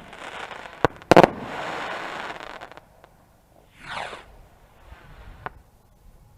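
Fireworks going off: a sharp bang about a second in, then a louder bang followed by a couple of seconds of crackle, a short falling whistle near the middle and a small pop.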